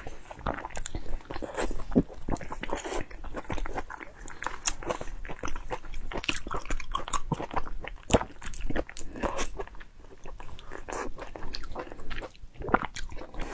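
Close-miked eating sounds: biting and chewing of a braised, stuffed intestine, with irregular wet smacks and clicks of the mouth.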